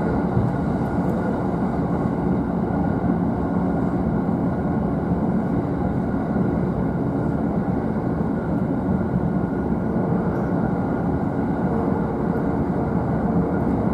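JR East E531 series electric train running at speed, heard from the upper deck of a double-decker Green car: a steady running noise of wheels and undercarriage on the rails.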